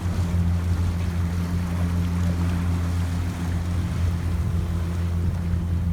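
A boat's engine running steadily, a low even drone, with wind and water noise over it.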